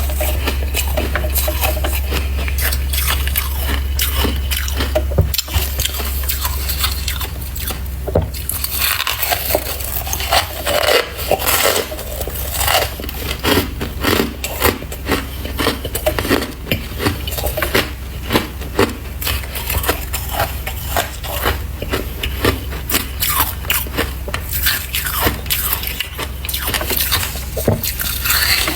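Freezer frost being scraped and crunched close to the microphone: a dense run of quick, crisp crunches. A low steady hum sits under the first third and drops away about eight seconds in.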